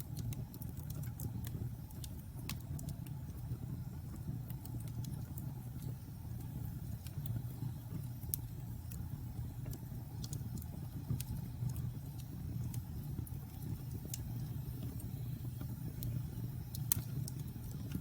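Wood fire burning in a fireplace: a steady low rumble of the flames with scattered sharp crackles and pops, the sharpest pop near the end.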